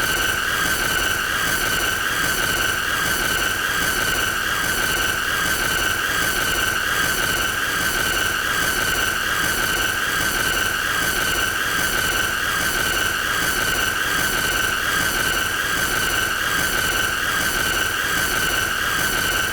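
A person's voice making a high-pitched squeal, held as one unbroken steady tone with a slight regular wobble and looped without a pause for breath.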